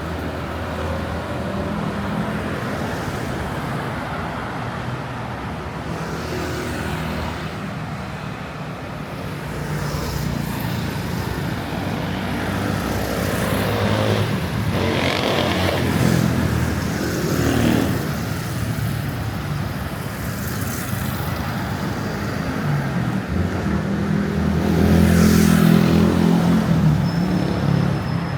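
City street traffic: cars and motorbikes running and passing close by with a steady engine hum, several vehicles swelling and fading, the loudest passing near the end.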